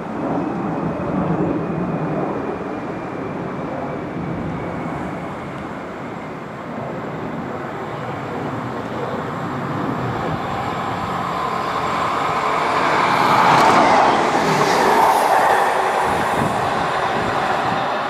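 A train running past, the noise building to its loudest about 13 to 15 seconds in, then easing off.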